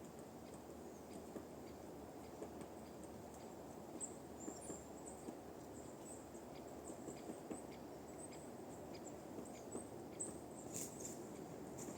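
Woodpecker pecking at a tree in scattered, irregular taps rather than a fast drum roll, with brief high-pitched bird chirps in between, over a steady low hiss.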